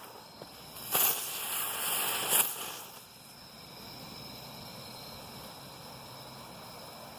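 Jumping Jack ground-spinner firework burning, a loud hissing whoosh about a second in lasting a second and a half, then a fainter steady hiss as it keeps going.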